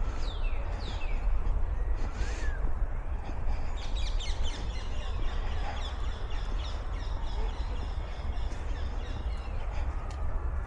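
Birds calling, with harsh crow-like caws among many quick falling chirps, thickest in the middle, over a steady low rumble.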